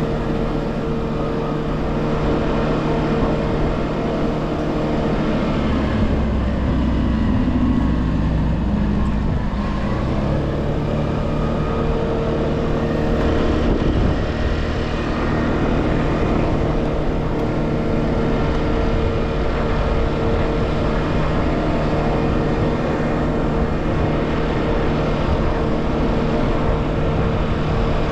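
TVS Pep+ scooter's small single-cylinder four-stroke engine running steadily on the move, with road and wind noise. The engine note shifts for a few seconds about seven to ten seconds in, then settles back to a steady pitch.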